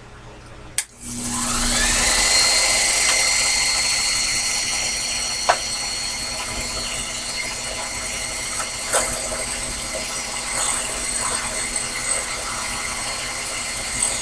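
Sherline mini lathe switched on with a click. Its motor winds up to speed over about a second, then runs with a steady whine and a few small clicks and knocks.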